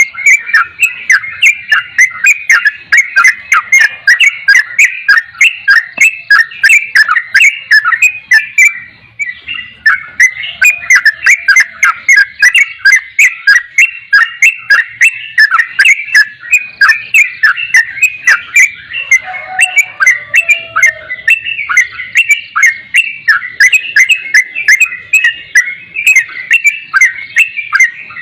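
Yellow-vented bulbul (trucukan) calling: a fast, steady run of short chirps, about three a second, with a brief pause about nine seconds in.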